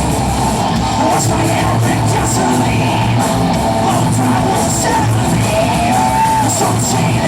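Live rock band playing loud, full-band rock with singing.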